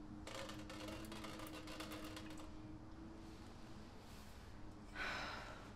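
Quiet ambience with a steady low hum. Faint crackling rustles for the first couple of seconds, and a short hiss about five seconds in.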